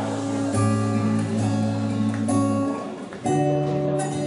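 Acoustic guitar strumming chords, the chord changing about half a second in and again near three and a quarter seconds.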